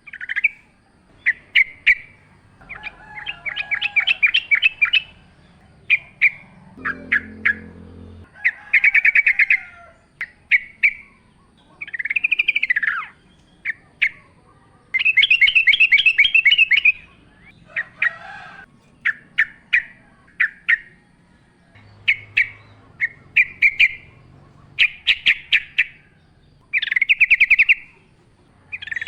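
Sooty-headed bulbul singing: short bubbly phrases repeated every second or two, with a brief faint low rumble about seven seconds in.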